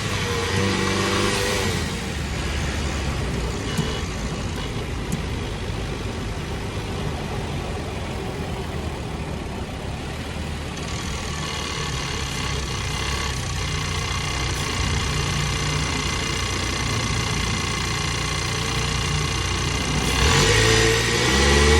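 A 2022 Ford Bronco's 2.3-liter turbocharged four-cylinder engine running steadily, then getting louder and changing pitch near the end.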